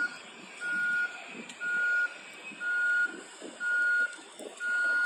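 An electronic beeper sounding a single steady tone of about half a second, repeating about once a second, in the manner of a backup alarm.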